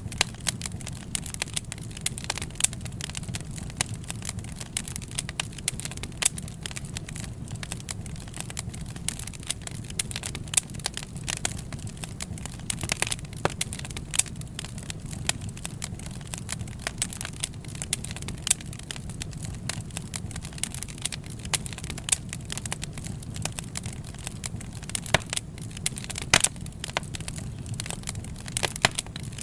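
Wood fire crackling, with frequent sharp irregular pops and snaps over a steady low rumble of the flames.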